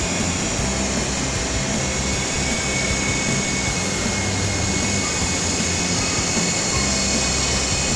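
Electric motors and coaxial rotors of a Syma S033G RC helicopter in flight, giving a steady whirring hum with a thin high whine.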